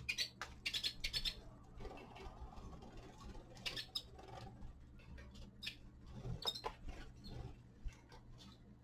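Small cage finches moving about and feeding, with irregular short clicks and rustles and brief high chirps that come in little clusters.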